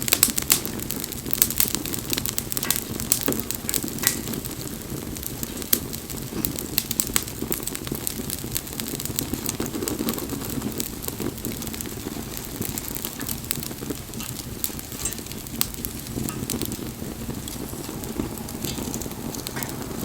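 Wood bonfire crackling with many sharp pops, thickest in the first few seconds, over a low steady rumble.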